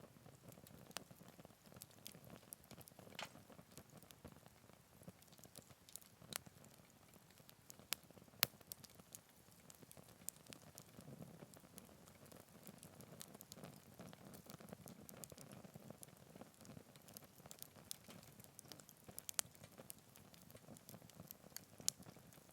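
Wood campfire burning quietly: a soft low rustle of flame with irregular sharp crackles and pops from the burning wood, a few standing out louder.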